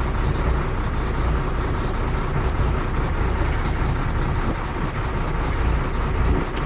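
2006 Volvo truck's diesel engine idling steadily with a miss, which the fault codes put on injector number 6.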